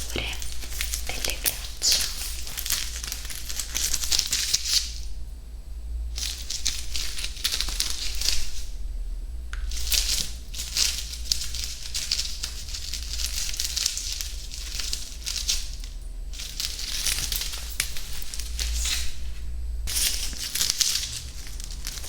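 Close-up ASMR crinkling and crackling, in long spells broken by a few short pauses.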